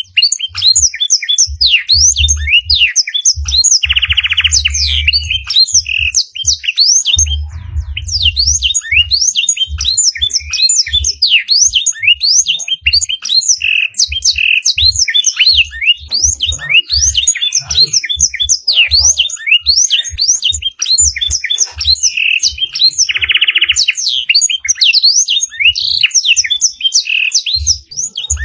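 A canary sings a fast, unbroken song packed with blackthroat-style phrases: quick rising and falling whistled notes, with a buzzy roll about four seconds in and again near the end. Dull low thumps run underneath.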